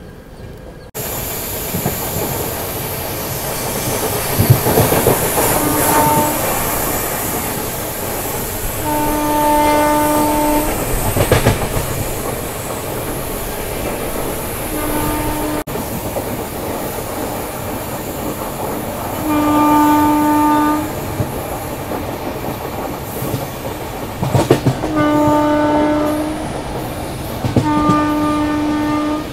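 Passenger train running along the track with wheel clatter and occasional knocks, its horn sounding six times: two short toots and four longer blasts of a second or more. The running noise gets louder about a second in.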